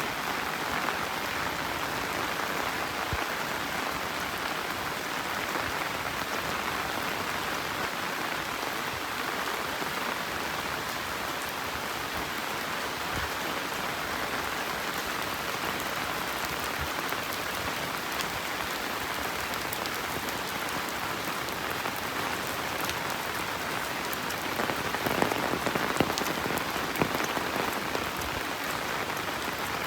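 Steady rain falling, with scattered drops pattering close by; for a couple of seconds near the end, a cluster of louder, sharper drop hits.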